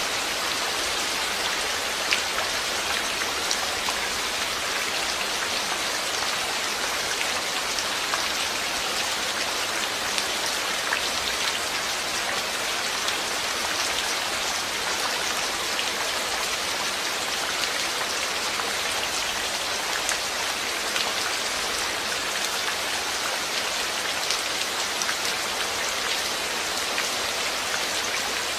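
Steady rain falling, an even hiss of drops on a surface with scattered single drop ticks standing out.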